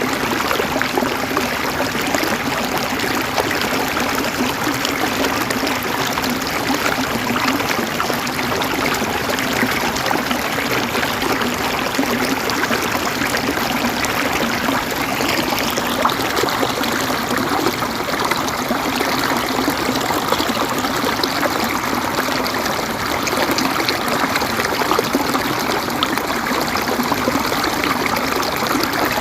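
Steady flowing water, a stream running and trickling without a break.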